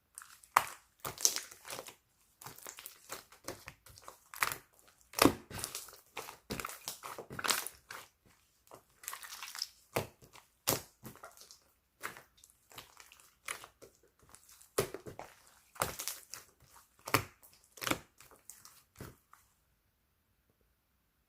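Clear slime being squeezed and pressed by hand, giving an irregular run of sharp pops and crackles that stops a couple of seconds before the end.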